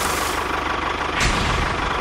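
Steady engine-like drone with a thin whine, broken by short sharp bursts of hiss at the start and again about a second in.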